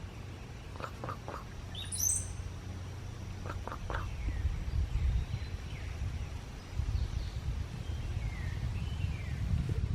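Cowbird singing its liquid, gurgling song: short low gurgling notes about a second in and again near four seconds, with a thin high whistle rising at about two seconds and fainter sliding whistles later. A steady low rumble runs underneath.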